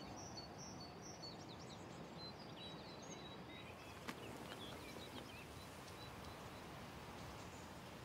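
Quiet outdoor ambience with small birds chirping faintly, mostly in the first half, and one soft click about four seconds in.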